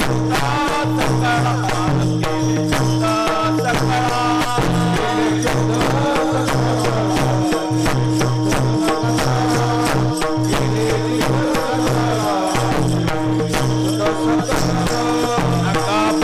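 Marathi devotional kirtan music: a wavering melody over steady sustained low notes, with small hand cymbals jingling and clashing continuously to keep the beat.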